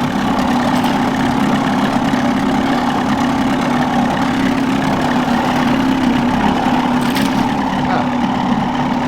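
Boat's outboard motor running steadily at low trolling speed, with a brief click about seven seconds in.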